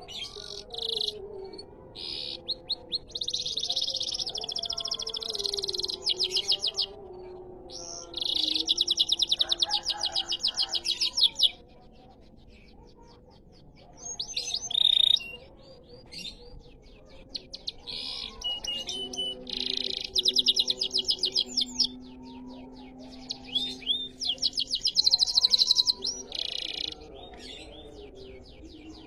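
Domestic canary singing in long, very fast rolling trills, each phrase lasting a few seconds with short pauses between, over faint low held tones.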